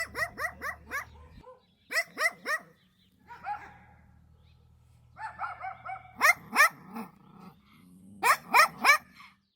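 A dog barking in quick runs of three to five short yips, with a softer whine about three and a half seconds in.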